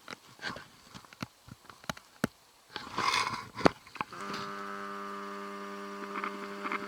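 Scattered clicks and crackles, then about four seconds in an insect starts buzzing steadily at one unchanging pitch.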